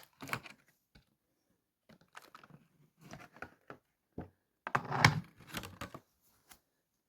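Plastic packaging crinkling and rustling in short irregular bursts as a boxed model locomotive is unpacked, with a few light clicks and knocks. The loudest handling comes about five seconds in.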